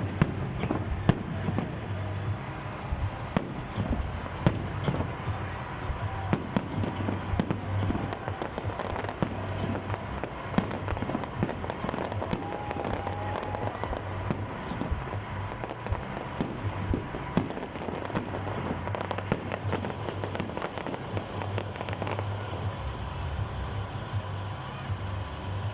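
Fireworks display: a dense, continuous run of sharp bangs and crackles, many reports overlapping throughout.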